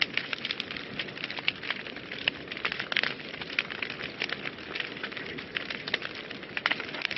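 Wood fire burning in a fireplace, crackling and popping with many sharp, irregular snaps over a steady hiss of flame.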